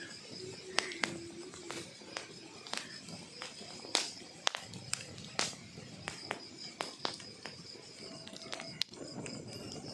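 Wood logs burning in a fireplace, crackling with irregular sharp pops, the loudest about four and five and a half seconds in, over a low rustle of flame. A faint steady high tone runs underneath.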